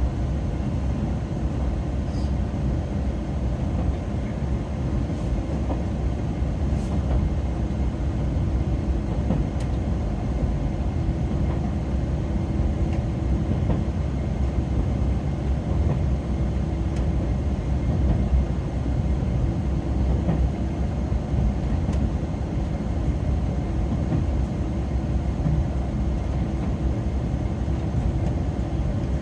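Interior running noise of a JR Shikoku 2000-series diesel tilting express railcar under way: a steady low rumble with a constant hum.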